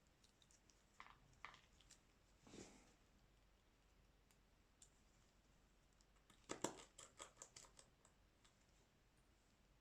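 Faint small clicks and taps of tools and phone parts being handled on a repair bench during a smartphone screen replacement, with a short brushing sound about two and a half seconds in and a quick run of clicks a little past the middle.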